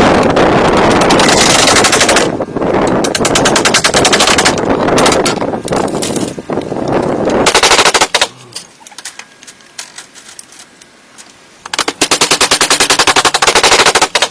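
Power tool working wood with a rapid, machine-gun-like rattle of many strikes per second. It runs loudly for about eight seconds with brief dips, pauses, then runs again in a loud burst of about two seconds that stops abruptly near the end.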